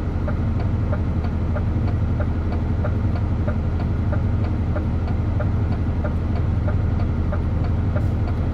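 DAF truck's diesel engine running with a steady low hum, and a light tick repeating about three times a second.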